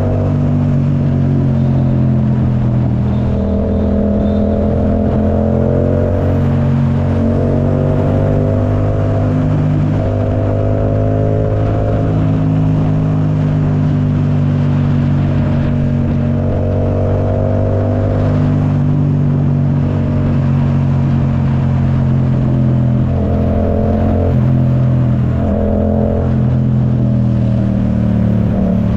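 Yamaha YZF-R7's 689 cc parallel-twin engine running through an Akrapovic full exhaust while riding. The engine note holds a fairly steady pitch, and a higher layer comes and goes every few seconds with small changes of throttle.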